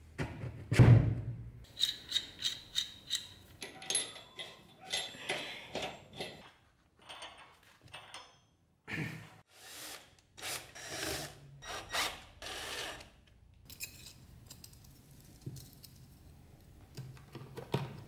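Hand-tool work on a wooden ice box: a heavy knock about a second in, a quick run of clicks at about three a second, then several longer scraping strokes.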